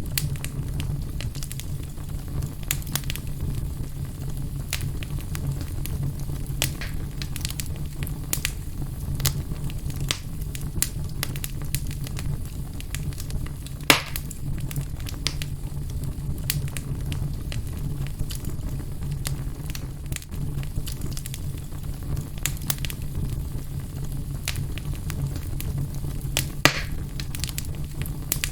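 Wood fire burning in a fireplace: a steady low rumble of the flames with frequent sharp crackles, and two louder pops, one about halfway through and one near the end.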